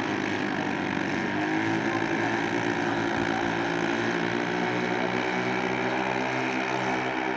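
A model airplane's engine and propeller running with a steady droning hum. Its pitch holds nearly level, firming up about a second and a half in.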